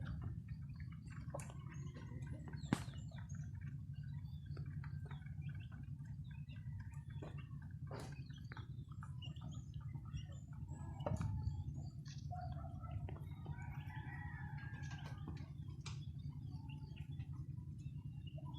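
Chickens clucking softly, with most calls about two thirds of the way through, over a steady low hum and scattered clicks; a sharp click comes about three seconds in.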